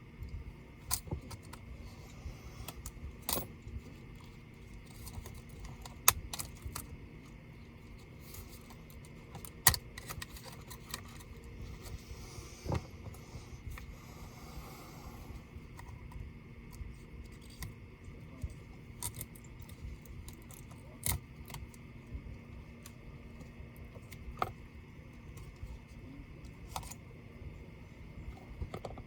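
Small metal and plastic clicks and taps from handling laptop parts and small tools, coming at irregular intervals, with two louder clicks about six and ten seconds in, over a faint steady hum.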